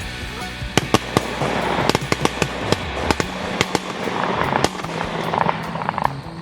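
A volley of shotgun blasts from several hunters firing at geese: about a dozen shots in quick, uneven succession over some four seconds, starting about a second in.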